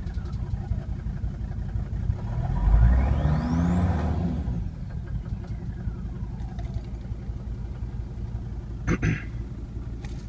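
Mercedes C250TD five-cylinder turbodiesel running cold with no exhaust fitted, blipped once about two seconds in; a whistle from the turbo rises with the rev and falls away as it drops back to idle. A sharp knock about nine seconds in.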